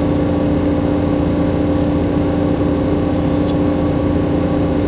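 Steady running noise of a moving train heard inside the passenger carriage: a low rumble with an even, unchanging hum over it.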